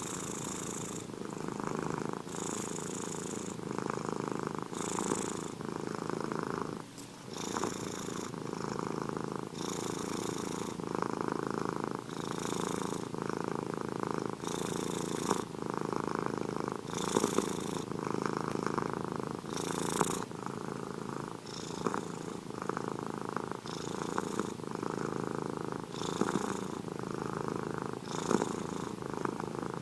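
Domestic cat purring continuously close up. The purr changes character in a regular cycle of about two seconds as the cat breathes in and out, with a brief drop about seven seconds in.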